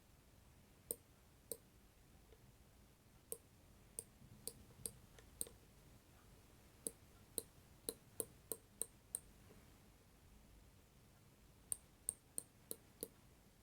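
A series of about twenty sharp, short clicks, irregularly spaced and bunched in small groups, over near silence.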